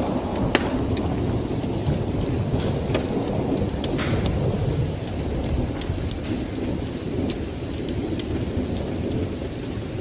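Wood fire burning in a fireplace: a steady low rush of flames with scattered sharp crackles and pops, the loudest about half a second in.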